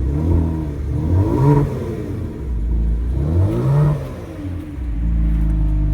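Kia Stinger GT2's twin-turbo 3.3-litre V6 revved through its exhaust in three short blips, each rising and falling in pitch, then settling to a steady idle near the end.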